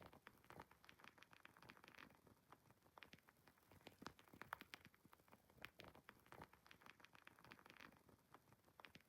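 Faint wood fire crackling: irregular small pops and snaps, several a second at times, over a soft hiss.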